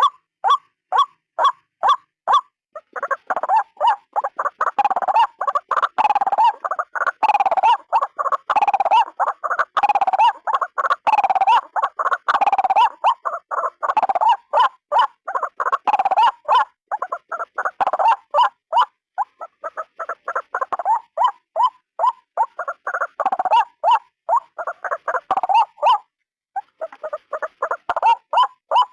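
White-breasted waterhen (ruak-ruak) calling: short, evenly spaced calls about two and a half a second, then about three seconds in a dense, rapid run of calls that keeps going, broken by a short pause near the end before it resumes.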